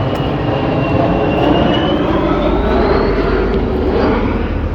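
Airliner passing low overhead on its landing approach: a steady jet-engine noise with a high whine that dips slightly and then rises in pitch, loudest in the middle.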